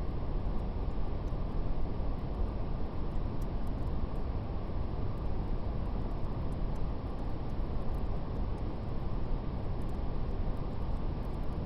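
Steady brown noise, deep and even, with faint scattered crackles of a fire.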